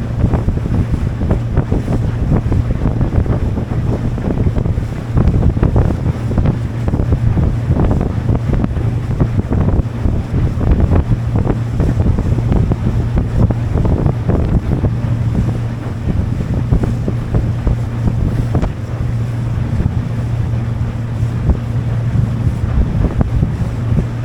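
A motorboat under way, its engine running with a steady low hum, buried under heavy wind buffeting on the microphone and the wash of water.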